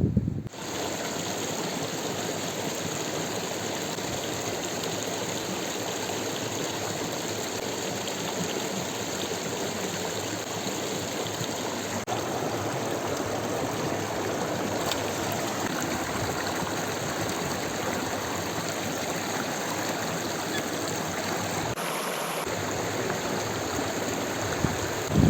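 Steady rush of flowing water, like a stream.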